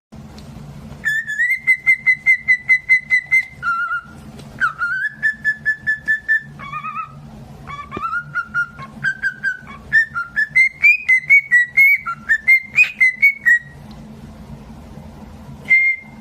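Pet bird whistling long runs of quick repeated notes, about five a second, shifting up and down in pitch several times, over a steady low hum.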